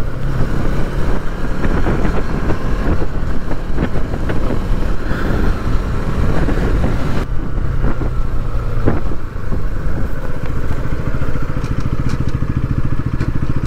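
Bajaj Pulsar NS200 motorcycle's single-cylinder engine running steadily as the bike is ridden, with a short dip in loudness about nine seconds in.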